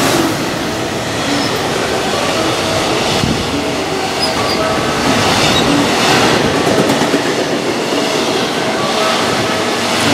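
JR Freight EF210 electric locomotive and its long train of container wagons passing close by at speed: a loud steady rush of wheels on rail, with short thin ringing tones here and there and a few sharp clacks as wheels cross rail joints.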